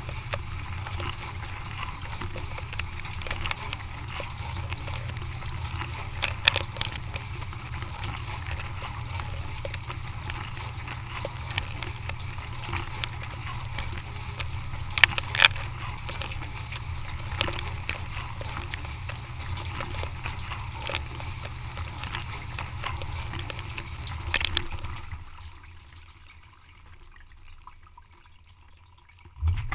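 Dishwasher running: a steady low motor hum under water splashing and trickling, with scattered clicks. About 25 s in the sound dies away to a quiet lull, and it starts again abruptly near the end.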